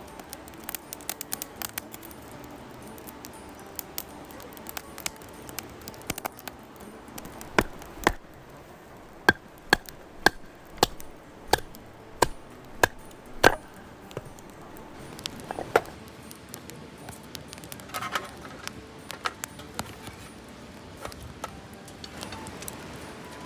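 Light crackling and small clicks, then a run of about nine sharp, evenly spaced chopping knocks in the middle, roughly one every 0.7 seconds, followed by a few lighter knocks.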